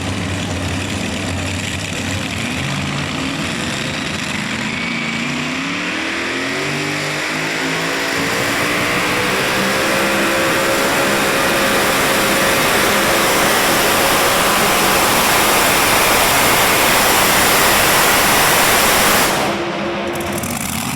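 A diesel engine on a competition pulling vehicle revs up from a low steady run, its pitch climbing over several seconds. It then runs flat out at full power, loud and steady, for about ten seconds, and drops off suddenly near the end as the driver comes off the throttle.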